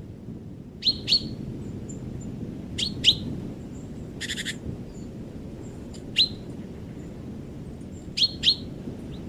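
Wild birds calling: short, sharp calls sweeping down in pitch, mostly in quick pairs, and one harsh rasping call about four seconds in, over a steady low background rumble.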